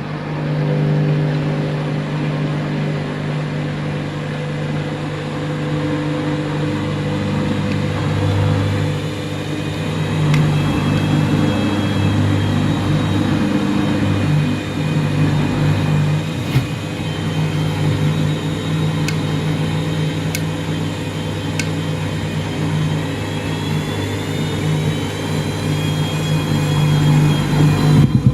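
Washing machine running its drum on a detergent-overloaded, heavily sudsing wash, with a steady motor hum and a higher whine that shifts and climbs in pitch towards the end. A few sharp clicks come through around the middle.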